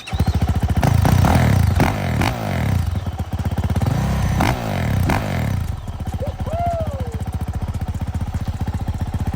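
A brand-new 2023 Yamaha YZ450F's single-cylinder four-stroke engine starts at once, is blipped up and down twice, and then settles into a steady idle about six seconds in.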